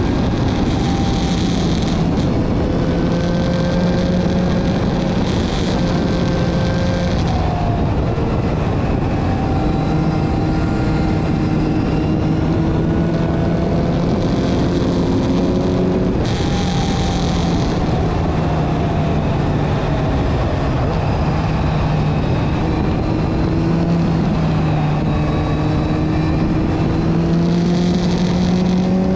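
Kawasaki Z900's inline-four engine heard onboard at track speed, its note climbing and dropping back several times with throttle and gear changes, over a steady rush of noise.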